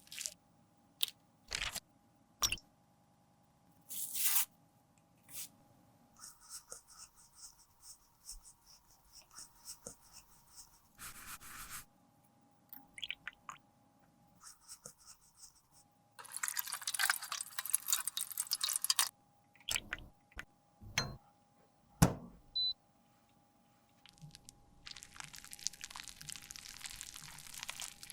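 Close-up handling sounds of makeup being worked: scattered sharp clicks and taps, with a few longer stretches of scraping and crunching, the longest about halfway through and near the end. A faint steady hum runs underneath.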